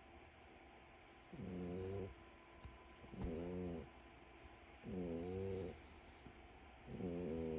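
French bulldog snoring in deep sleep: regular snores about two seconds apart, each lasting under a second and carrying a droning tone, with a fourth one starting near the end.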